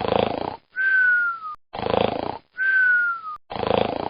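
Cartoon snoring sound effect in a steady loop: a rasping snore, then a thin whistle falling slightly in pitch, repeating about every second and three quarters.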